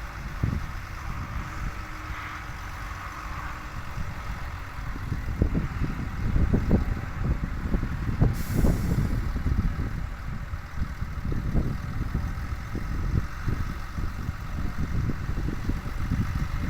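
Tata truck's diesel engine running with a low, uneven rumble, and a short air-brake hiss about eight seconds in.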